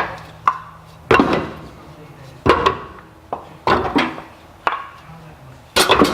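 Wooden parts knocking together in a string of irregular sharp knocks, about seven, as desk legs are fitted to a wooden frame.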